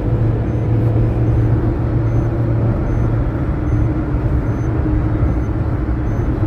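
Car engine running steadily with a low rumble and a constant pitch.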